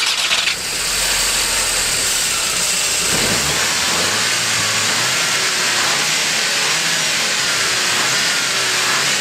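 Skoda Octavia RS's 2.0-litre turbocharged FSI four-cylinder petrol engine, heard with the bonnet open, running at idle with a brief rev about three seconds in. There are a few sharp knocks right at the start.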